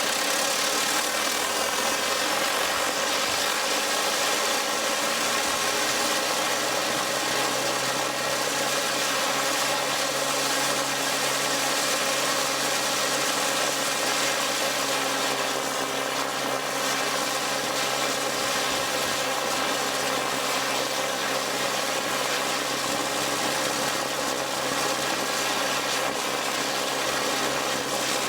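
Prototype TR Mk I turborocket engine running steadily on fuel: a continuous rushing noise with several steady tones over it. A low hum steps up in pitch about six seconds in.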